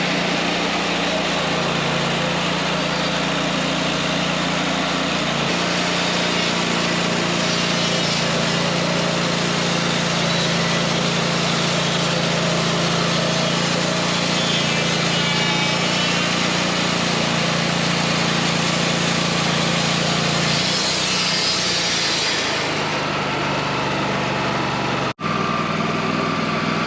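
Wood-Mizer LT40 Wide band sawmill running steadily, its engine note under a dense hiss. The engine note shifts about five seconds in and again about twenty-one seconds in, and the sound drops out for an instant near the end.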